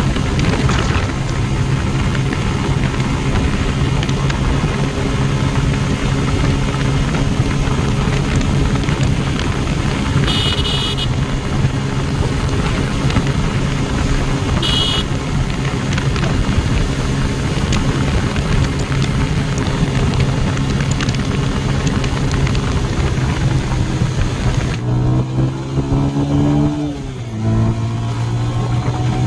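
Bajaj Pulsar 150's single-cylinder air-cooled engine running at high, steady revs near its top speed of about 105–110 km/h, under heavy wind rush on the microphone. Two short high beeps come about ten and fifteen seconds in. Near the end the wind noise eases, and the engine note dips briefly, then rises again as the throttle is reopened.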